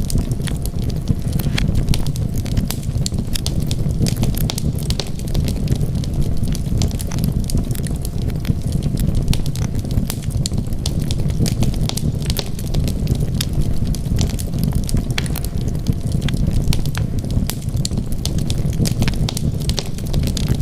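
Wood fire burning with a steady low rumble and a constant scatter of small sharp crackles and pops.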